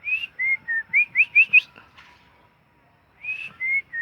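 Whistled imitation of a female white-rumped shama's call, meant to stir up a caged male: two runs of clear, high notes, each starting with a few notes stepping downward and then a quick series of short rising slurs, with a pause of about a second and a half between the runs.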